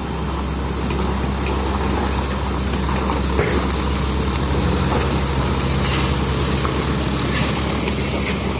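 Excavator's diesel engine running steadily, with scattered clicks and knocks and a brief high squeak about four seconds in.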